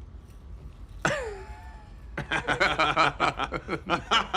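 A man's voice gives a short exclamation that falls in pitch, then about two seconds in breaks into laughter, a quick run of short voiced pulses.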